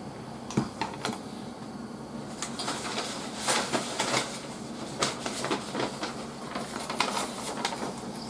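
Close-miked eating noises: chewing a mouthful of mapo glass noodles, with soft irregular clicks and crackles that grow denser in the second half. Near the end comes the handling of a sheet of paper.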